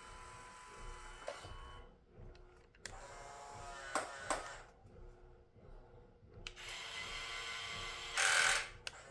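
Small electric drive motor of a 1/18 Huina radio-controlled Scania truck whirring in short runs, its pitch climbing as it speeds up. A loud hiss comes a little after eight seconds in.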